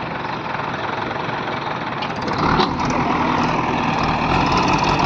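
Heavy diesel engine running, picking up revs and getting louder about two and a half seconds in.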